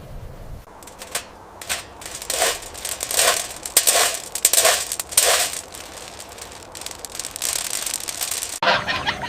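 Crunching and crackling noises: a run of about five louder crunches roughly two thirds of a second apart amid lighter crackles. A different sound cuts in abruptly near the end.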